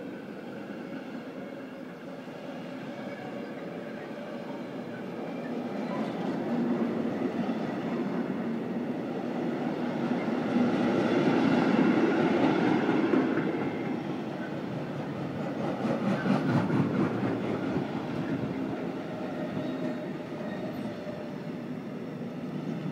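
A train going by: its rumble builds to a peak about halfway through, swells again a few seconds later, then eases off, with faint steady whining tones running underneath.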